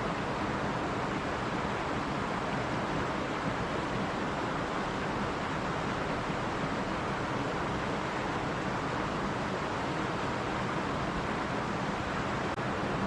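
Stream water running steadily over rocks: a constant rushing, even in level throughout.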